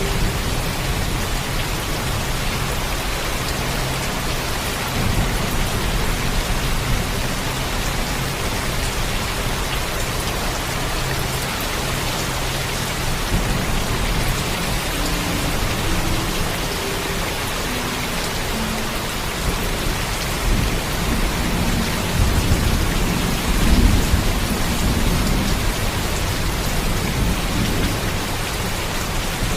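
Heavy, steady rain falling, with a low thunder rumble that swells about two-thirds of the way through.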